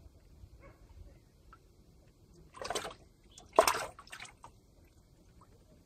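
Water splashing twice in short bursts, the second louder, with a smaller splash just after it.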